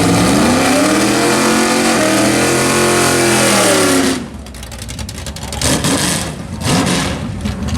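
A car engine revs up over about two seconds, holds high, then falls away about four seconds in. Quieter engine noise follows, rising briefly twice.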